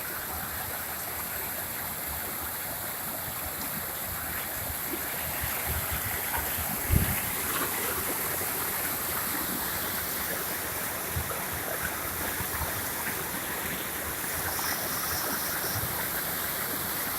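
Swollen spring-flood river rushing past a small bridge, a steady rush of fast water that the bridge's channel cannot carry. A single low thump about seven seconds in.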